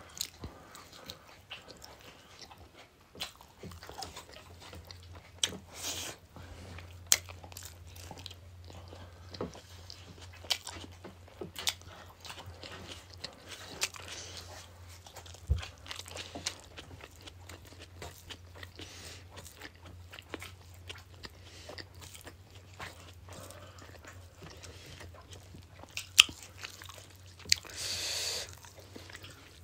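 Mouth-eating sounds of a meal eaten by hand: chewing and biting with scattered sharp clicks, over a low steady hum. Near the end, a brief noisy sip from a glass.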